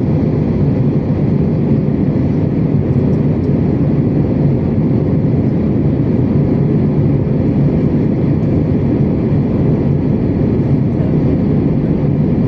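Steady in-flight cabin drone of an Airbus A321neo, engine and airflow noise from its Pratt & Whitney geared turbofans heard from inside the passenger cabin. It is an even, low-pitched rumble with no change in level.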